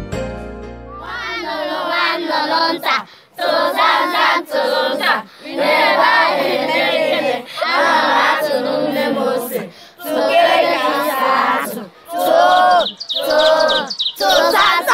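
A group of children's voices singing or chanting together in loud phrases, starting about a second in, with short gaps between phrases.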